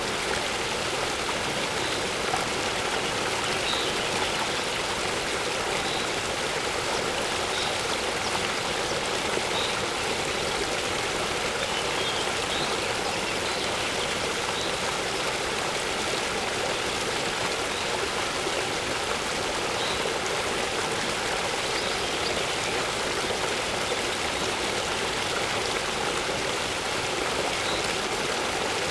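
Waterfall water rushing steadily, with a bird's short, high chirps repeating about every one to two seconds.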